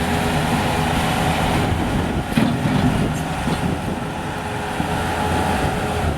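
Bobcat S185 skid steer's diesel engine running steadily, with a couple of short knocks about two and a half and three seconds in.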